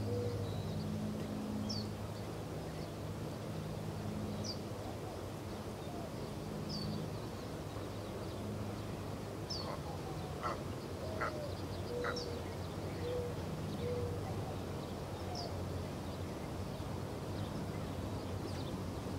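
Birds calling: a short high chirp repeats every two seconds or so, with lower call notes and a few sharper notes about halfway through, over a steady low hum.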